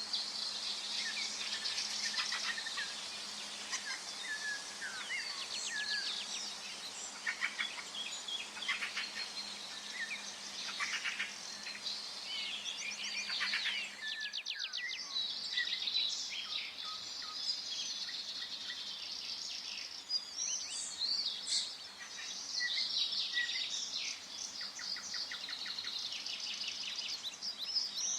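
A chorus of several songbirds in a forest, overlapping chirps, rapid trills and short whistles over a light background hiss.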